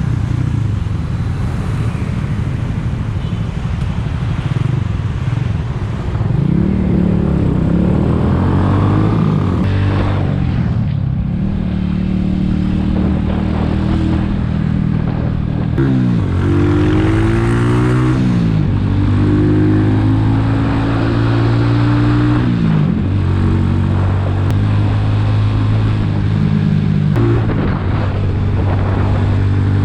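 Skygo Earl 150's single-cylinder CG150 engine, fitted with a 28mm carburetor, running under light throttle while riding. Its pitch climbs as it accelerates and drops back at each gear change, several times over.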